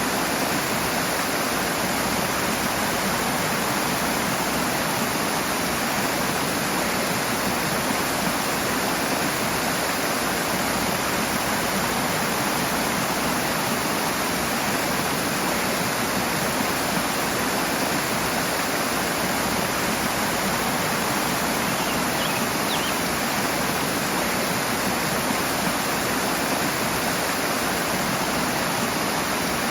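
Rushing water: a stream or small waterfall pouring steadily, a constant dense rush with no pauses.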